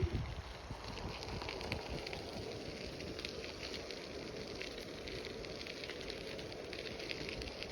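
Bicycle tyres rolling over a crushed-stone trail: a steady gravel crackle with scattered small clicks.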